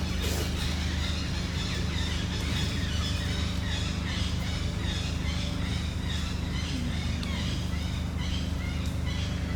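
A steady low hum, like an engine running, with short high chirps repeating about once or twice a second over it.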